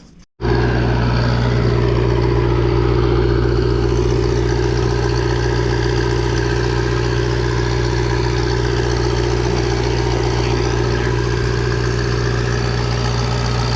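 Engine of a roofing crew's roof-coating spray machine running at a steady speed, a constant unchanging drone. It starts abruptly about half a second in.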